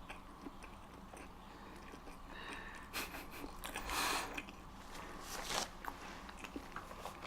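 Close-miked chewing of a mouthful of chili dog bun, soft wet mouth noises with three louder moments about three, four and five and a half seconds in.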